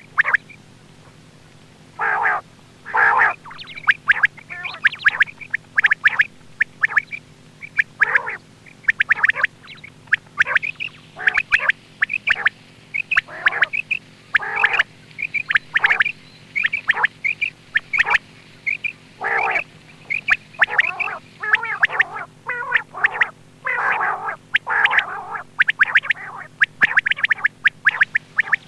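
Quail calling over and over for a hunting lure, in short calls roughly one or two a second, some in quick clusters. A steady low hum runs underneath.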